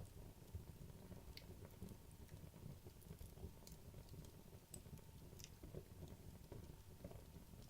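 Wood logs burning down in a fireplace, a faint low rumble with sparse small crackles and pops at irregular intervals.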